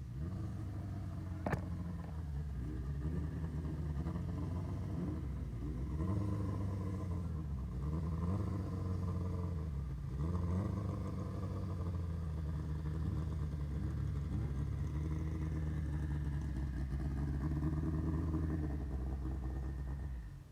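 A vehicle engine running steadily, its pitch rising and falling a little as it is throttled, with a sharp click about a second and a half in.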